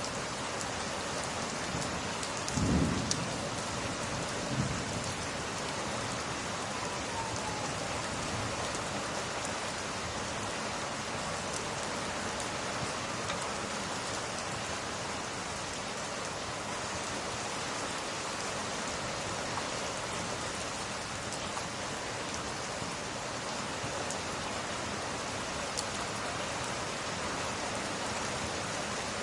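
Steady heavy rain, with a short low rumble of thunder about three seconds in and a few faint crackles from a wood fire.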